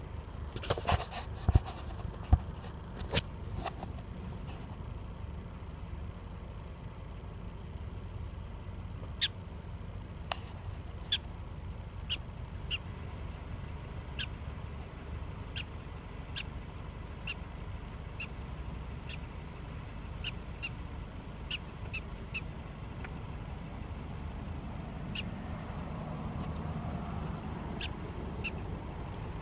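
Prairie dog calling in a long series of short, sharp, high chirps, roughly one a second and sometimes two close together, over a steady low rumble. A few louder knocks come in the first few seconds.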